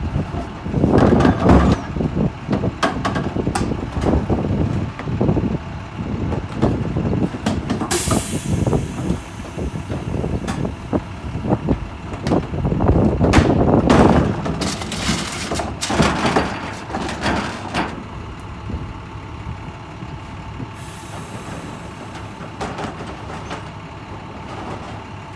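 Garbage truck at work on its route: engine running under irregular clanks and thuds, with a sharp hiss of air brakes about eight seconds in.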